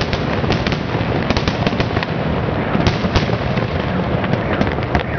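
Fireworks show: a dense, continuous run of bangs and crackling reports over a constant rumble, with a few sharper cracks a little before the middle.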